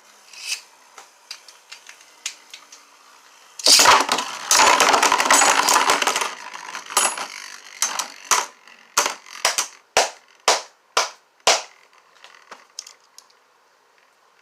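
Two Beyblade spinning tops launched into a plastic stadium: a loud scraping, clattering rush of spinning and clashing for about two and a half seconds. This is followed by a run of sharp clicks, about two a second, that stops a few seconds before the end.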